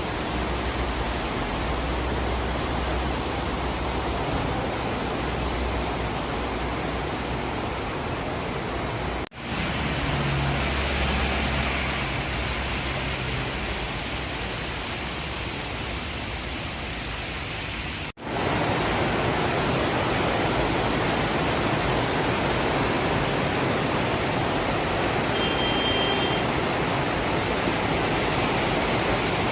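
Heavy downpour: a steady, dense hiss of rain, with a low hum underneath in the first part. The sound drops out briefly twice, about a third and two-thirds of the way through.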